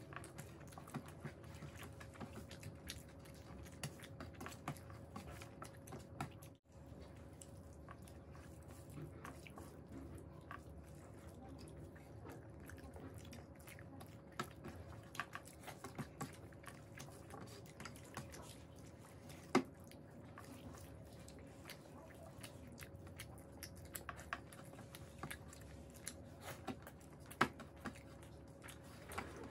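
Close-up mouth sounds of two people eating rice and curry by hand: soft wet chewing, lip smacks and fingers squishing rice on steel plates, heard as many small clicks over a faint steady hum.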